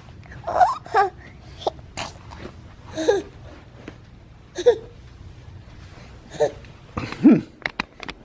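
A baby making short vocal sounds, about eight brief babbles and effort noises with sliding pitch, while trying to climb up onto a couch. A few sharp clicks come near the end.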